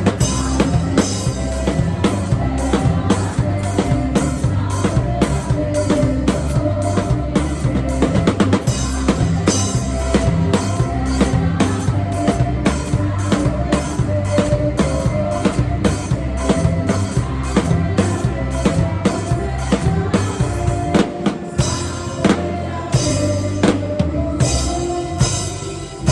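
Acoustic drum kit played live along to a worship-song backing track, picked up by a phone's microphone: a steady beat of kick, snare and cymbals over the band, with a short drop in the low end about three quarters of the way through.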